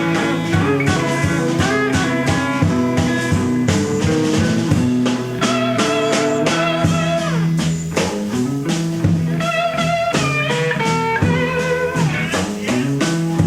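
Live electric blues from a guitars-and-drums band with no bass: a slide guitar plays lines with a long rising glide and wavering, vibrato notes, over a second electric guitar and a drum kit keeping the beat.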